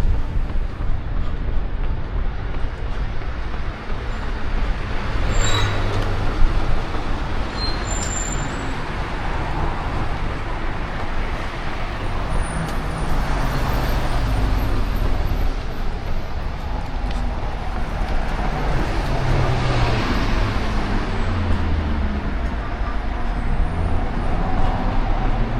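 City road traffic: vehicles passing with engine drones that rise and fall over a constant low rumble and tyre noise.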